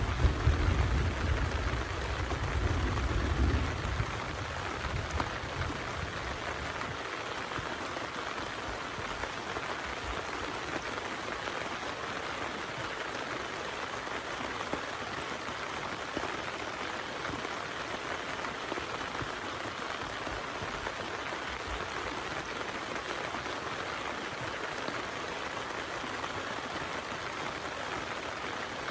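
Heavy rain falling steadily. A low rumble underneath dies away over the first four seconds.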